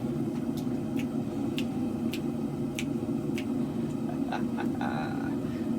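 Two-burner propane forge running with a steady low rush, with a scattering of sharp clicks, about one every half second to second.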